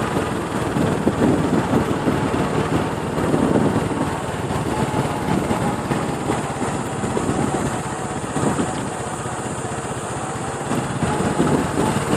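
Small motorcycle engine running while the bike is ridden along, with a steady rushing noise over it.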